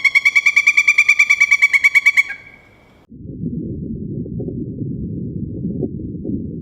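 An animal call: a rapid, high trill of about a dozen pulses a second lasting about two seconds. It is followed about three seconds in by a steady low rumbling noise.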